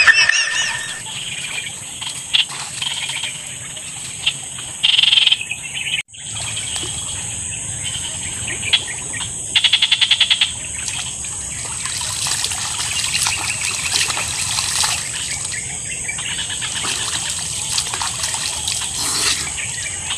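Wetland ambience: a steady high insect buzz with frogs and birds calling in short bursts and trills over it. The sound drops out for a moment about six seconds in.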